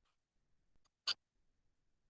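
A single short, sharp click about a second in, in an otherwise near-silent room.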